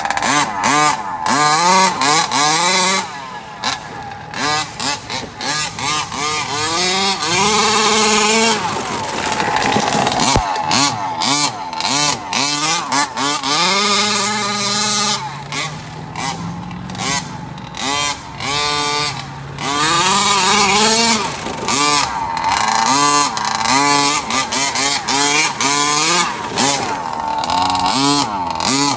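Small two-stroke petrol engine of a 1/5-scale RC car, the stock Losi 5ive-T 2.0 engine breathing through a Dominator tuned pipe, revving up and dropping back over and over as the car is driven.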